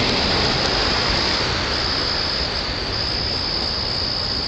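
A steady, high-pitched chorus of night insects over a broad, continuous rumble of a passing train.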